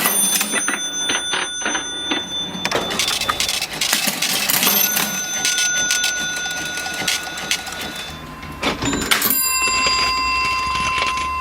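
Vintage mechanical cash register in use: keys and mechanism clattering with many sharp clicks, and its bell rung about three times, each ring lingering for a few seconds.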